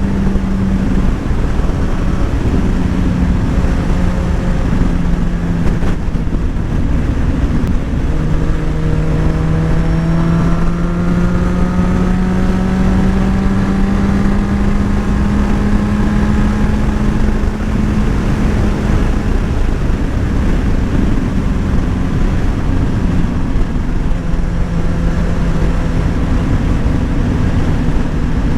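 Motorcycle engine running at road speed, its pitch holding steady and then rising slowly for several seconds as it gathers speed, under heavy wind rush on the microphone.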